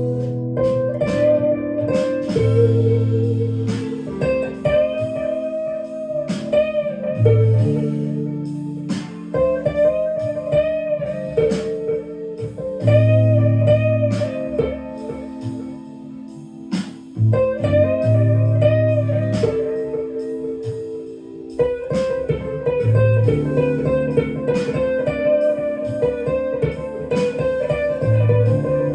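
Clean-toned electric guitar improvising a lead line in A minor, with notes bent up and back down, over sustained bass notes and chords.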